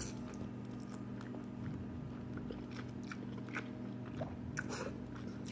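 A person chewing a mouthful of spinach pasta with vegetables close to the microphone: small, irregular wet mouth clicks, over a steady low hum.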